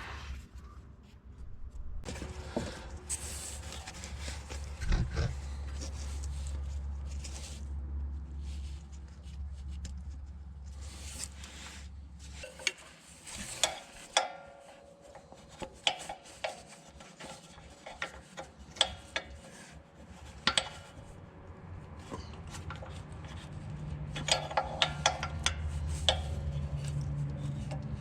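Scattered clicks, scrapes and rubbing of hand tools and parts being handled while bleeding the rear brakes, over a low steady hum that stops about halfway through and comes back near the end.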